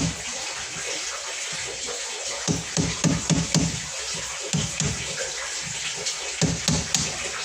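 Water running steadily from a tap, with short runs of rhythmic rubbing strokes, about four a second, several times.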